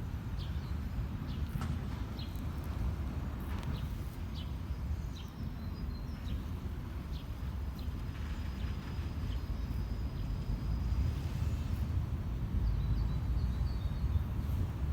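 Sparrows chirping in short, scattered calls, with a quick run of chirps near the end, over a steady low rumble.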